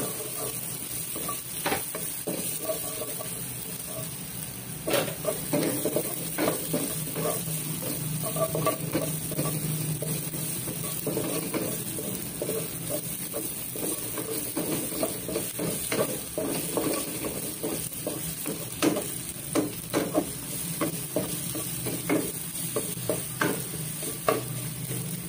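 Minced garlic and onion sizzling in hot oil in a stainless-steel honeycomb wok, sautéed toward browning while a wooden spatula stirs them, scraping and knocking against the pan in frequent irregular clicks.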